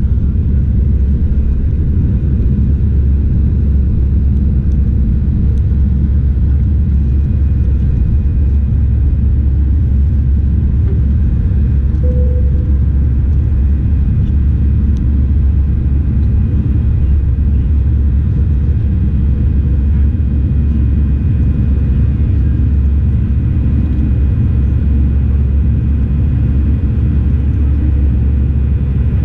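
Airbus A319 airliner's steady rumble, a deep, even drone that holds level with no rise or fall in pitch.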